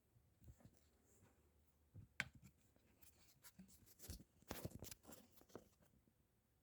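Faint, irregular knocks and clicks from a BMW F30's left drive shaft, the knock that signals a fault in that shaft. There is a sharp single knock a couple of seconds in and a quick run of them about four to five seconds in.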